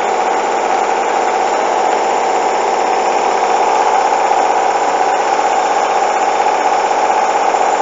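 Hoover washing machine on its spin cycle, the motor and drum running with a steady, even whine while it works up towards 1400 rpm with a bedding load.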